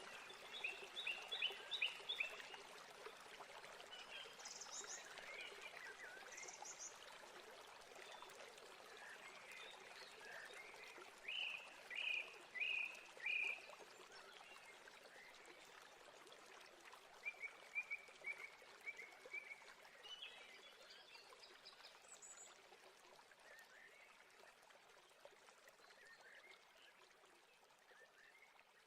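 Steady rush of a waterfall with birds singing over it in several short runs of quick chirps, the loudest a run of four notes about halfway through. The whole sound slowly fades toward the end.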